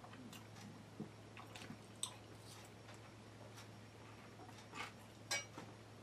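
Quiet eating sounds: faint, irregular mouth clicks and chewing, with a few sharper clicks about one, two and five seconds in. A steady low hum runs underneath.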